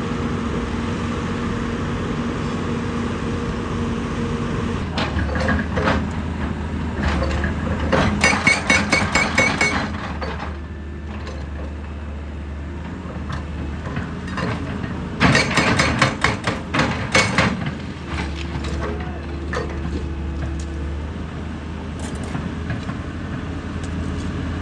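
Heavy diesel machine, an excavator, running steadily, with two bursts of rapid metallic clattering, about seven strikes a second, a third of the way in and again past the middle.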